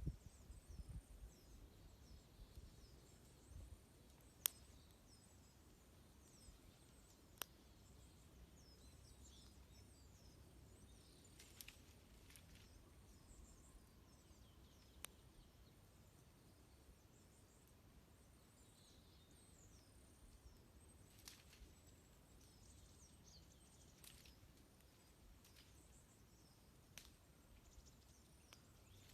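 Faint twittering of many small birds, short high calls all through, with a few sharp single pops from a crackling wood campfire.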